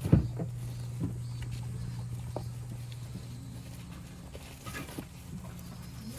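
Goats moving about: scattered knocks and clicks, with one loud knock right at the start, over a steady low hum.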